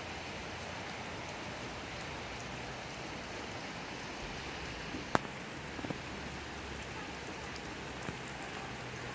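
Steady rainfall, an even hiss of rain. About halfway through a single sharp tap stands out, with a few fainter taps shortly after and again near the end.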